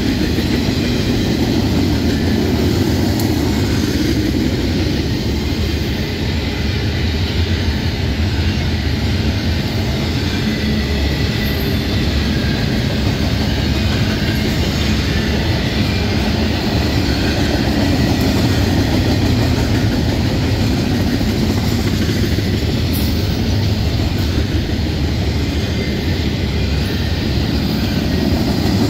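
Double-stack intermodal well cars of a freight train rolling past at speed: a loud, steady noise of steel wheels on the rails that holds without a break.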